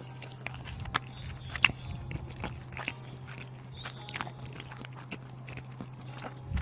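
A person chewing and biting food close to the microphone: irregular sharp crunchy clicks, the loudest about one and a half seconds in.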